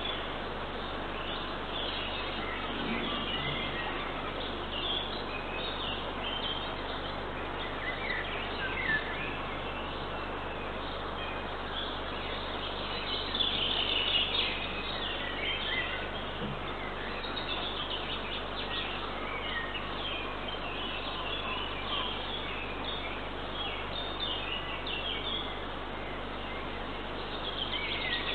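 Small wild birds chirping and singing in many short calls, busiest about halfway through, over a steady background hiss.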